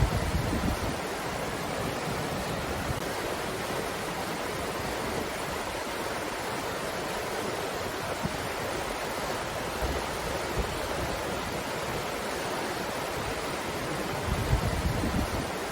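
Steady breeze hiss, with brief low gusts buffeting the microphone at the start and again near the end.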